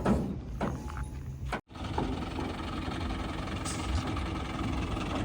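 Diesel engine of a backhoe or tractor running steadily, with a few knocks early on and a brief dropout to silence about a second and a half in.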